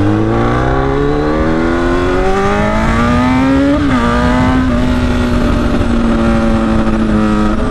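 Straight-piped motorcycle exhaust, with the slip-on muffler removed and very loud, revving up under acceleration. The pitch rises steadily, drops sharply at an upshift about four seconds in, then holds nearly steady as the bike cruises.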